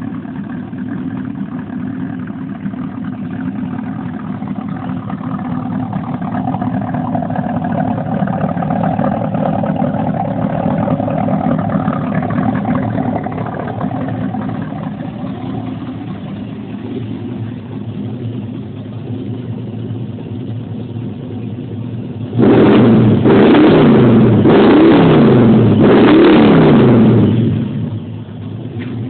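Big-block Chevy 396 V8 idling steadily. About three-quarters of the way in it is revved hard several times in quick succession, then settles back to idle.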